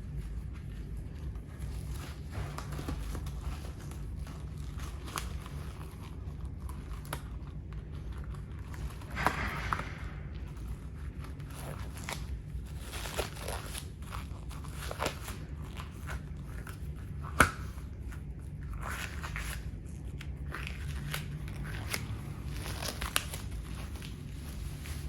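A plastic toy fire truck cracking and crunching under the stomps of tall riding boots, in scattered sharp snaps and short crunches. The loudest crack comes about two-thirds of the way through, over a steady low hum.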